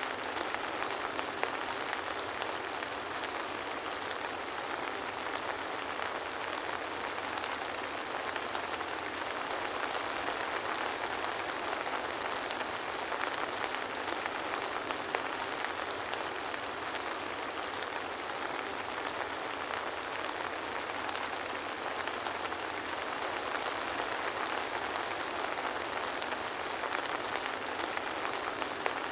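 Steady soft rain falling, a dense even patter of many small drop ticks, with no thunder.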